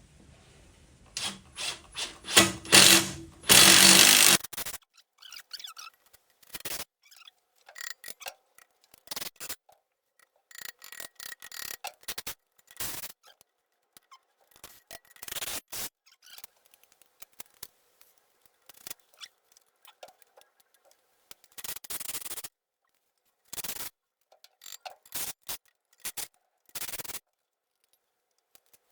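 A power drill briefly drives a screw that is being forced through a mounting-bracket hole too small for it. Then come scattered short clicks and scrapes of screws and a metal bracket being handled.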